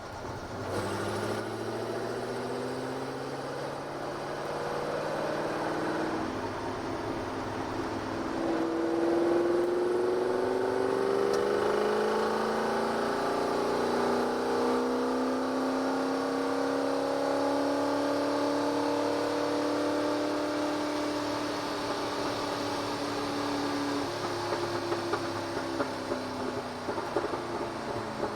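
Ford GT40's V8 engine heard from the cockpit, its note climbing as the car accelerates through the gears, then holding a steady, slowly rising pitch. Near the end the note drops as the throttle comes off.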